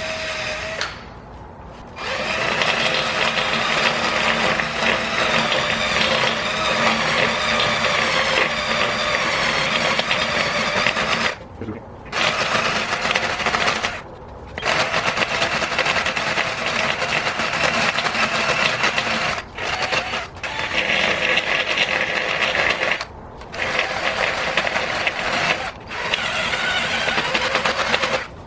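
Electric drill spinning a rotary rasp bit, grinding down raised, curb-rashed aluminum on an alloy wheel rim. A steady whine runs for several seconds at a time, with about six short pauses.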